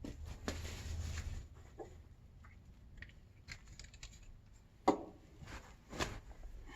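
Light clicks, taps and rubbing of computer parts being handled during a PC build, with one sharp click about five seconds in and another about a second later.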